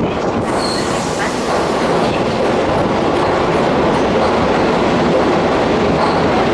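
Keihan Main Line electric train moving through the station platform, a steady loud run of wheel and motor noise with a brief high squeal about half a second in.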